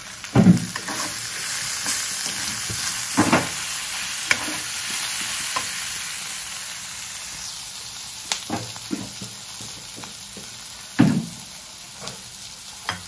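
Shimeji mushroom and meatball stir-fry sizzling in a pan, the hiss slowly easing off. A spatula knocks and scrapes against the pan several times as it is stirred.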